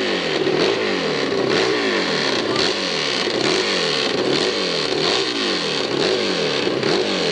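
Hillclimb motorcycle engine revving up and down over and over, its pitch rising and falling about once a second.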